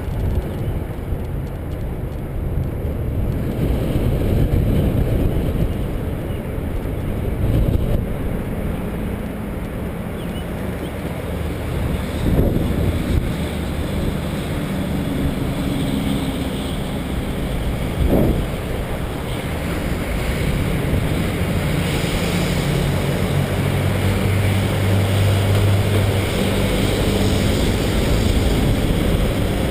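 Wind buffeting the microphone of a camera riding along on a moving bicycle, a steady low rumble, with two brief knocks midway.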